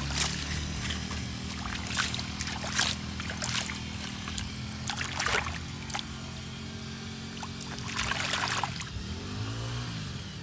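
Water trickling and splashing in short bursts as a toy is rinsed, over a steady low hum. Near the end a rising-and-falling engine-like sound comes in.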